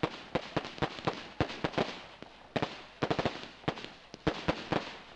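Fireworks going off: a rapid, irregular string of sharp bangs and cracks, several a second, easing briefly about two seconds in.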